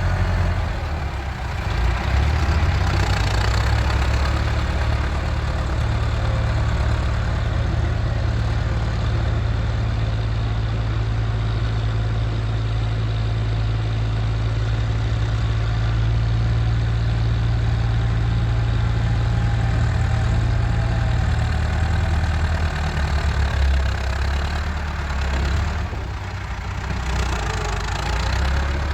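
Massey Ferguson 385 tractor's diesel engine running with a steady low drone; about three-quarters of the way through its note changes and it becomes somewhat quieter.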